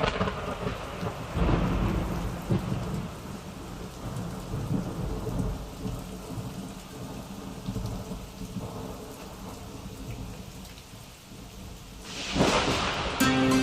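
Thunderstorm: rain falling steadily, with rolls of thunder that swell loudest about a second and a half in and again near the end.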